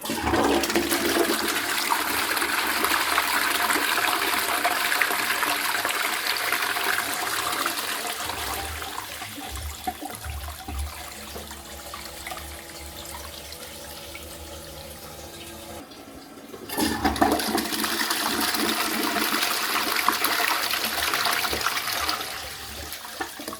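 Twyford Option close-coupled toilet flushed by its lever, its dual-flush syphon emptying the cistern into the pan in a loud rush of water. The rush eases into the quieter hiss of the ball-type fill valve refilling the cistern, with a few steady tones. After a brief break about 16 s in comes a second loud rush of water, then the quieter refill again.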